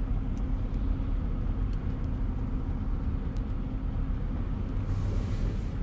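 Steady low rumble of a car's engine and tyres on the road, heard from inside the cabin while driving. A few faint ticks sound over it, and a soft hiss rises about five seconds in.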